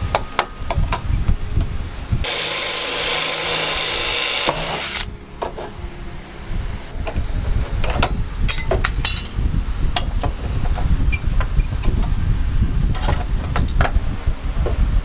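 A power tool runs steadily for about three seconds near the start, a dense, hissy whir. Before and after it come scattered sharp metal clicks and taps as sheet-metal body panels are handled and clamped.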